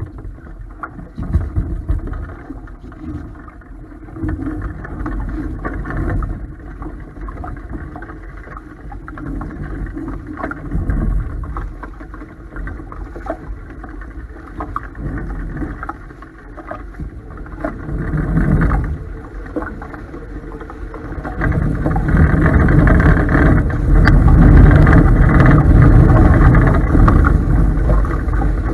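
Strong wind buffeting the microphone and water rushing past a Topaz 16CX catamaran sailing hard in high wind; a gusty rumble that grows louder about two-thirds of the way through.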